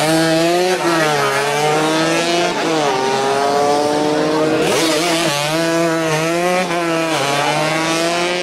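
Racing motorcycle engine, loud, revving up and dropping back about five times in a row.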